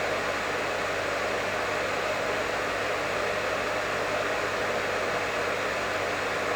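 Professional hair dryer running steadily: an even, unbroken rush of air with a faint low hum from its motor.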